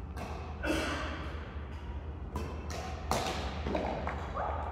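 Badminton rally: a run of sharp racket strikes on the shuttlecock, several in a row, some only a third of a second apart, with thuds of players' feet on the court.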